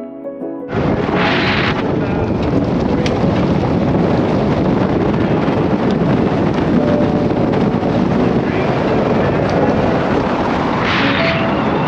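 Music cuts off under a second in. It gives way to the steady, loud rush of an old Mitsubishi Montero on the move: wind buffeting the microphone over road noise, with two brief hissing swells, one early and one near the end.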